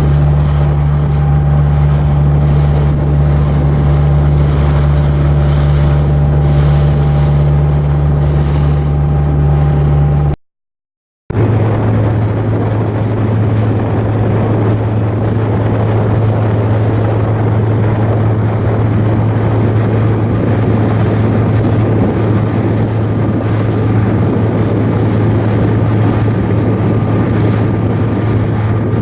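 A ship's diesel engine running steadily with a deep, continuous hum. About ten seconds in, a cut leaves a second of silence. After the cut the hum sits lower, with more rushing noise over it.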